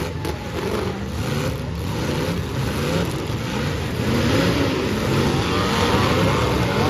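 Several demolition derby cars' engines revving at once, their pitches rising and falling over one another as the cars drive in the arena.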